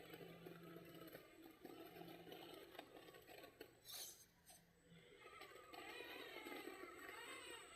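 Faint low hum of an RC crawler's small electric motor that stops about five seconds in, over faint scraping and rustling, with a single click about four seconds in.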